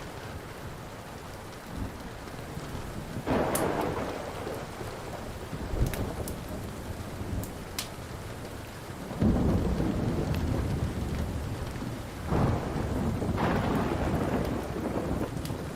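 Steady rain with rolling thunder rumbling in three long swells, starting about 3 s in, around 9 s and around 12 s in. Sharp pops from a crackling wood fire sound now and then over it.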